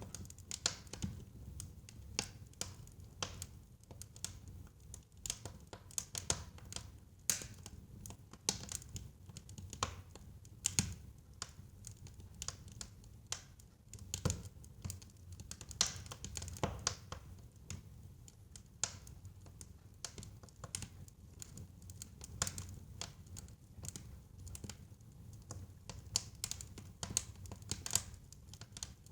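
Wood fire burning in a fireplace, crackling and popping irregularly over a low rumble of the flames.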